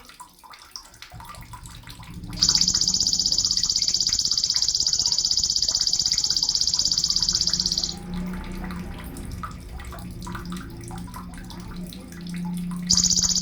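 Sogon bird giving a long, very rapid, high buzzing trill for about five and a half seconds. A second trill starts near the end.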